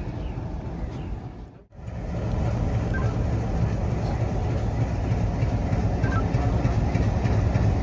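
Railway locomotive running with a steady low rumble while it is brought up to be coupled to the train. The sound drops out briefly a little under two seconds in.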